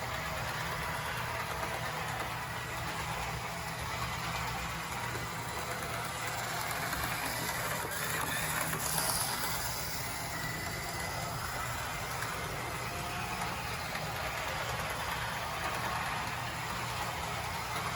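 Model electric locomotive (1980s Bachmann HO-scale E60CP) with its motor and gear drive running steadily as it travels along the track. It runs a little rough, with flaky electrical pickup.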